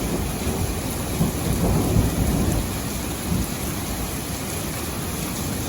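Heavy rain pouring steadily, with a low rumble of thunder that swells about a second in and eases off after a couple of seconds.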